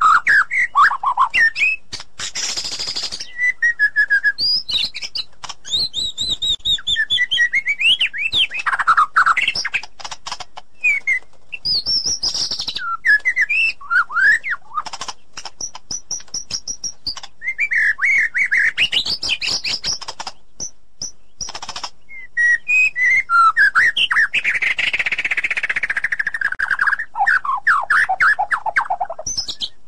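White-rumped shama (murai batu) singing a varied song of clear whistled phrases, rising and falling glides and fast runs of repeated notes, with short breaks between phrases.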